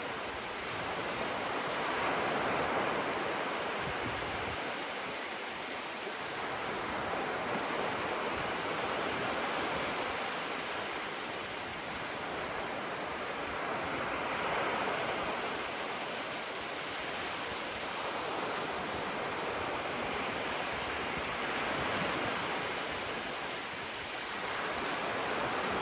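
Small ocean waves breaking gently on the shore, a steady wash of surf that swells and fades about every four seconds.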